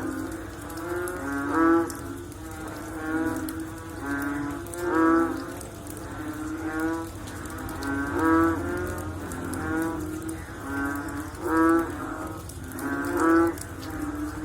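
Frogs calling after rain: a low, pitched call repeated about every second and a half, with fainter calls from other frogs overlapping in between.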